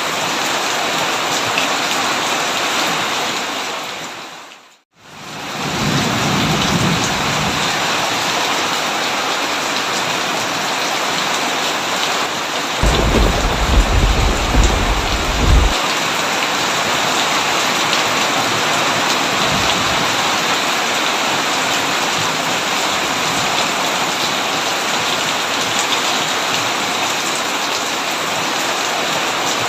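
Heavy rain falling steadily, an even hiss of downpour. It fades briefly to silence about five seconds in and comes straight back, and near the middle a low rumble of thunder rolls for about three seconds.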